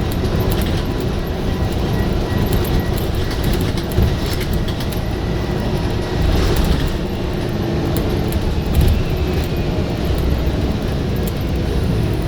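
Scania bus engine running hard, a steady heavy low rumble with frequent small rattles and clicks over it, swelling briefly a few times.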